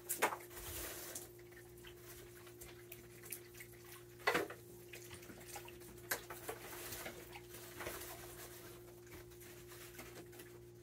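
Raccoons eating peanuts on a wooden deck: scattered small clicks and cracks of shells and paws, with one sharper knock about four seconds in, over a steady low hum.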